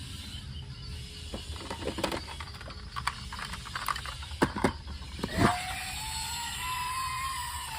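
Toy vehicles being handled, with scattered plastic clicks and knocks and one louder knock about five seconds in. Right after it a toy's siren sound starts, rising and then slowly falling in a wail.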